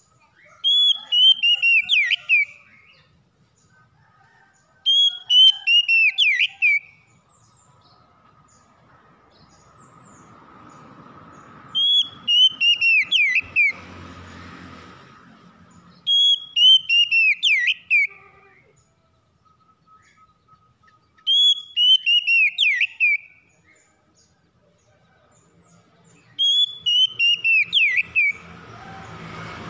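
Oriental magpie-robin (kacer) singing. The same short phrase of quick, falling whistled notes comes six times, about every four to five seconds.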